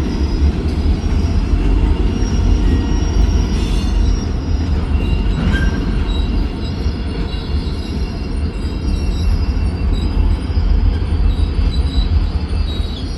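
Freight train cars rolling on the track: a steady heavy rumble, with thin high-pitched wheel squeals that come and go.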